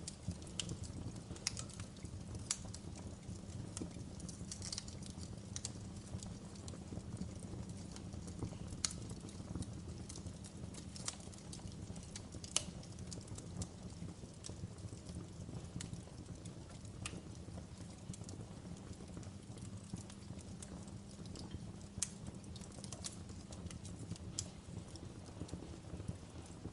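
Wood fire burning in a fireplace: a steady low rumble of flames with sharp crackles and pops at irregular intervals, about one a second.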